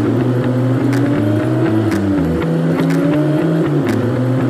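A racing-car engine revving up through the gears, its pitch rising for a second or two, dropping at each shift, then rising again. It is laid over music with a stepped bass line and a steady beat.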